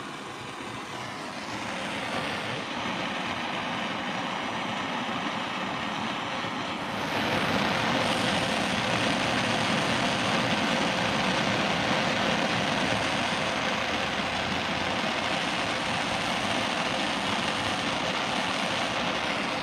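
Handheld gas torch burning with a steady roar, heating a heavy copper battery-cable lug to melt solder into it. The roar gets louder about seven seconds in.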